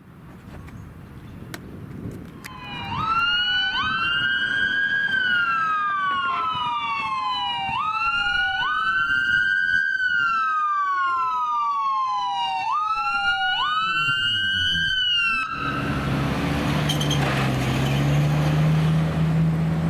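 Emergency vehicle siren on wail, two tones slightly out of step, each sweeping up quickly and falling slowly about every five seconds. It starts a couple of seconds in and cuts off suddenly near the end. A loud, low, steady drone with rushing noise then takes over.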